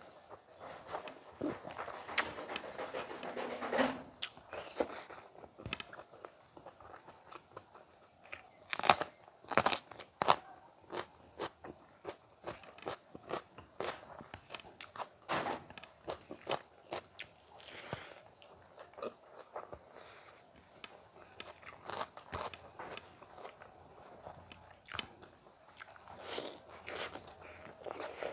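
A person chewing and biting mouthfuls of rice and curry eaten by hand, close to the microphone: irregular crunches and wet mouth clicks, the loudest crunches about nine to ten seconds in.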